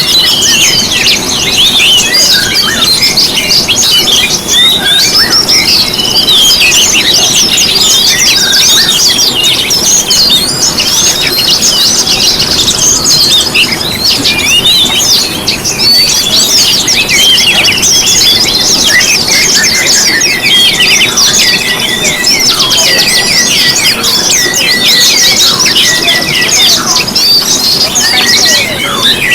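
Several songbirds singing and chattering at once, many fast overlapping chirps, trills and squeaky notes with no pause.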